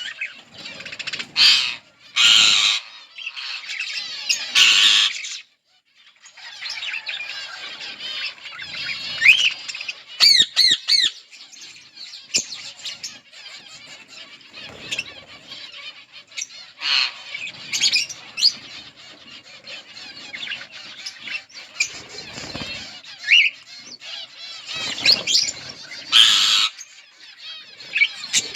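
A flock of budgerigars chattering continuously with warbles, chirps and squawks, broken by several short loud rushes of noise.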